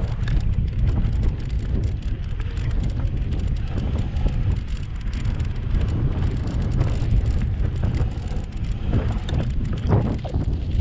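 Wind rushing over the microphone of a camera riding on a moving bicycle: a steady low rumble with many brief crackles.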